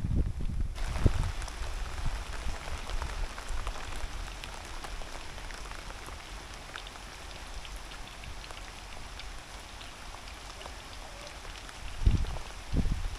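Heavy rain falling steadily, a dense hiss of many small drop hits. A few low thumps come near the start and again near the end.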